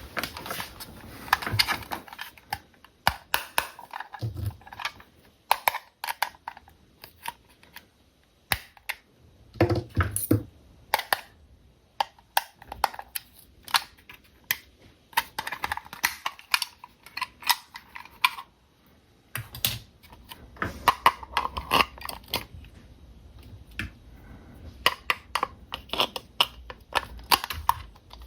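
Quick, irregular plastic clicks and taps with brief stretches of rustling, from a toy remote-control car and its packaging being handled during unboxing.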